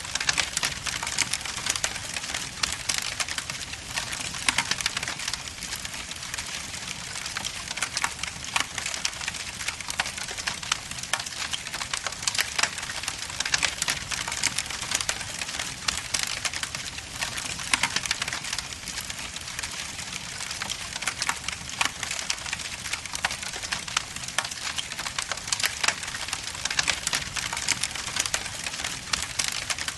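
Wood logs burning in a fireplace, crackling and popping steadily with many small sharp snaps over a low rumble of flame.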